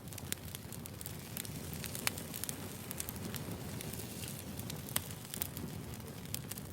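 Wood fire burning: irregular crackles and pops of burning logs over a low steady rumble, with louder pops about two and five seconds in.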